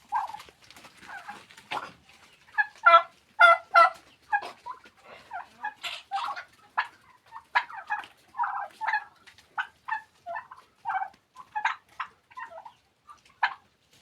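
Domestic turkeys calling: a run of short, pitched calls, several a second, the loudest about three to four seconds in.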